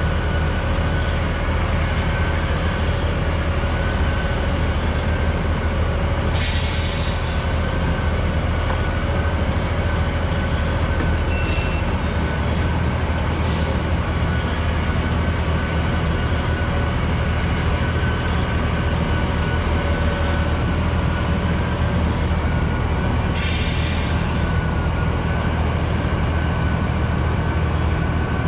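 Heavy diesel equipment, a belt truck and a skid steer, running steadily while sand is conveyed and spread. A low engine drone carries a steady high whine over it, and two short hisses come through, about a quarter of the way in and near the end.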